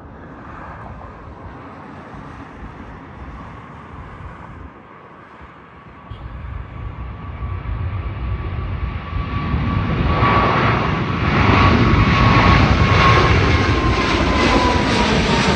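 Boeing 777-200LR's GE90 turbofan engines spooling up to takeoff thrust for the departure roll. The sound is low and steady at first, then grows steadily louder from about six seconds in. In the last few seconds a whine slowly drops in pitch as the jet passes.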